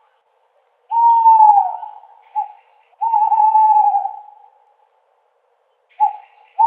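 Owl hooting: a long hoot that sags in pitch at its end about a second in, a short note, a second long hoot, then another short note and the start of a further long hoot near the end.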